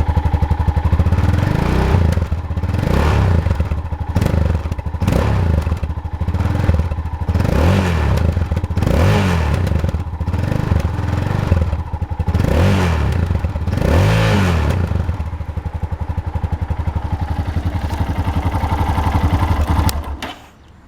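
Yamaha XT 660 X single-cylinder four-stroke engine on its original exhaust, blipped about eight times in quick rises and falls of revs, then settling back to idle and switched off near the end.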